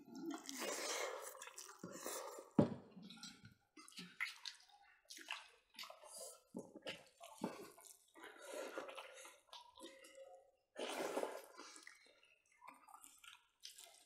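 Close, wet eating sounds of people eating smoked pork ribs by hand: irregular chewing, lip smacks and small clicks, with a couple of sharper clicks. Picked up close by a clip-on microphone.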